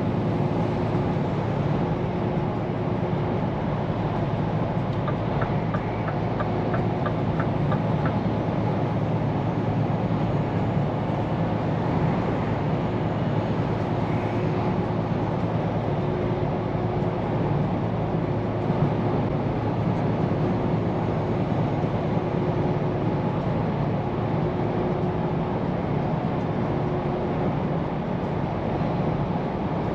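Scania P410 truck driving along with a steady engine drone and road noise. A short run of light, evenly spaced ticks, about three a second, comes a few seconds in.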